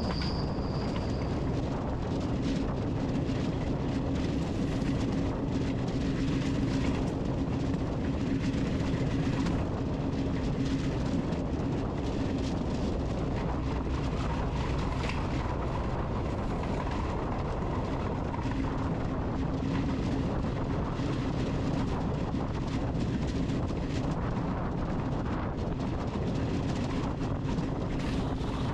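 Steady hum of a small quadcopter drone's propellers, with a constant low tone over an even rushing noise.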